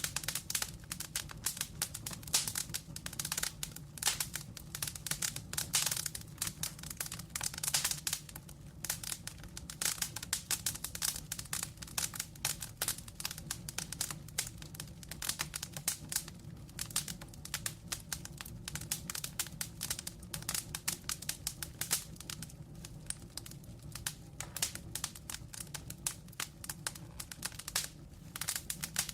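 Wood fire burning with dense, irregular crackling and popping over a low steady rumble of flame.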